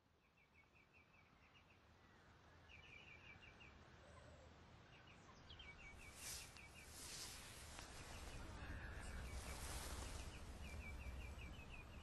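A small bird repeating short runs of quick, high chirps, several notes to a run, over a faint hiss that slowly grows louder, with a couple of brief louder rushes of hiss partway through.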